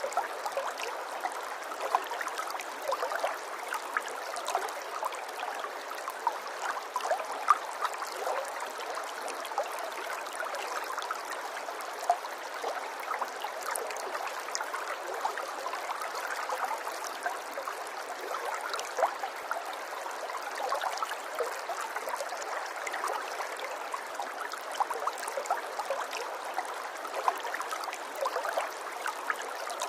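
Running water trickling and gurgling steadily, an even wash of water noise dotted with many small splashes and drips.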